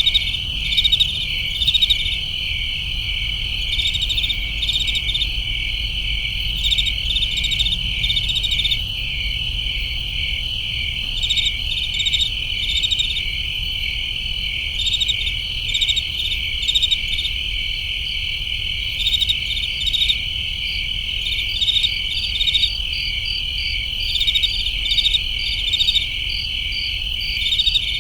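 A night chorus of crickets: a steady high chirring with clusters of sharper pulsed chirps repeating every second or two over it.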